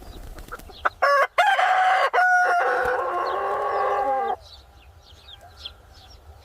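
A rooster crows once: a loud call of about three and a half seconds. It is followed by faint short chirps of small birds.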